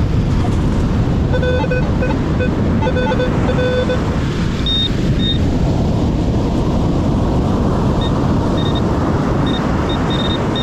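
Wind on the microphone and surf make a steady rush. Over it, a metal detector gives a run of short, buzzy lower beeps over a target that the detectorist can't tell from iron. Then come brief high chirps, spaced out, near the end.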